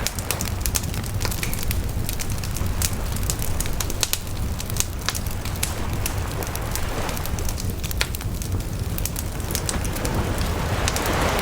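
Wood bonfire crackling, with sharp irregular pops and snaps from the burning wood over a steady low rumble. A softer rushing sound swells about seven seconds in and again near the end.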